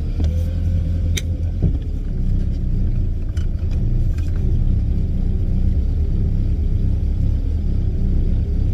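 Bayliner Capri boat engine running with a steady low rumble, just after catching. The owner finds it hard to start and thinks the carburetor needs rebuilding.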